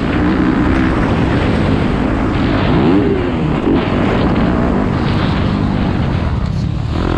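Yamaha YZ250F single-cylinder four-stroke dirt bike engine revving up and down while riding, its pitch climbing and dropping with the throttle, one clear rise and fall about three seconds in. Wind noise on the microphone runs under it.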